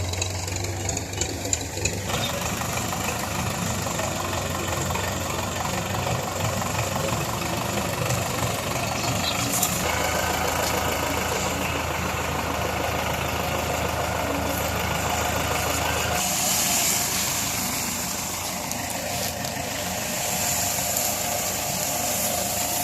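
Belarus tractor's diesel engine running steadily, its note shifting a few times, at about 2, 10 and 16 seconds in.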